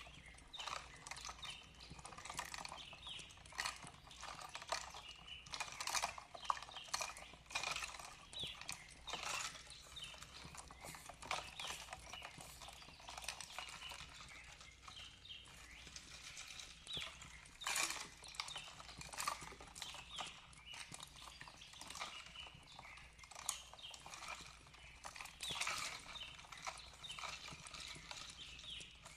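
Fireplace crackling, with irregular sharp pops and snaps coming several times a second.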